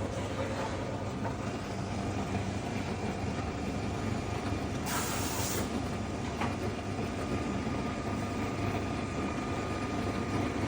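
Factory machinery running steadily with a low hum, with a short hiss of air or steam about five seconds in and a faint click soon after.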